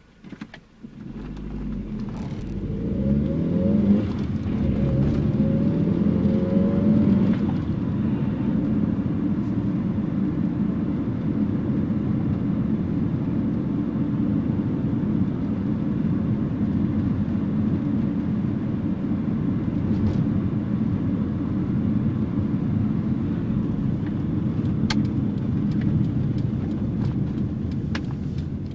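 1984 Nissan N12's carburetted 1.5-litre E15S four-cylinder engine pulling away and accelerating, its pitch rising over the first several seconds, then settling into a steady run with road noise while cruising.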